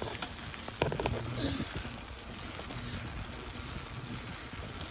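Wind buffeting a handheld phone's microphone over the rumble of a bicycle ridden fast, with a short burst of rattling clicks about a second in.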